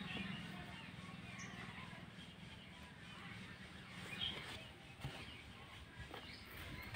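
Faint bird chirps scattered through quiet outdoor ambience, with a brief soft sound about four seconds in.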